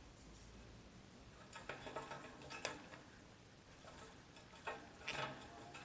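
Pet parakeet making faint, light ticking and tapping sounds in two short clusters, about two seconds in and again about five seconds in.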